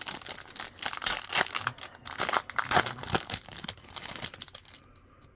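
A 2020 Bowman baseball card pack wrapper being torn open and crinkled, a dense crackling rustle that stops shortly before the end.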